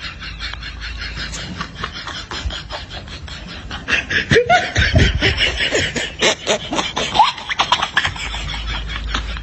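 Laughter sound effect: a person laughing in rapid, breathy bursts, growing louder with short high-pitched glides from about four to eight seconds in.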